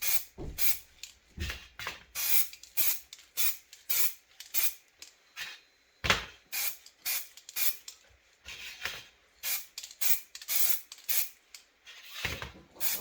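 Aerosol can of heat-resistant paint spraying in short hissing bursts, about two a second, laying down the first thin coat on chimney parts. The bursts pause briefly around the middle, where a single sharp knock sounds.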